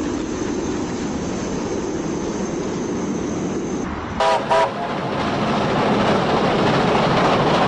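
Recording of a full-size train running, a steady rumble, with two short toots of its horn about four seconds in, after which the rumble grows louder.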